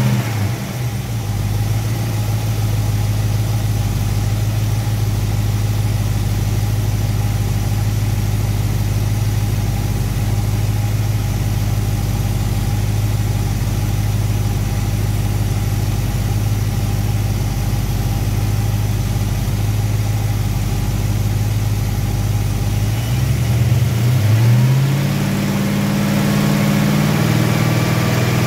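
Mopar V8 running steadily at raised revs, held up by hand at the throttle for a total-timing check at around 2500 rpm. Near the end the revs dip briefly and then pick back up.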